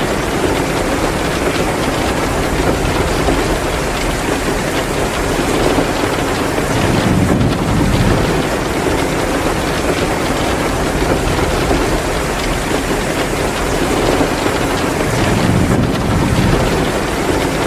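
Heavy rain pouring steadily, mixed with the crackle of a wood fire in a fireplace. A low rumble swells up twice, about seven and fifteen seconds in.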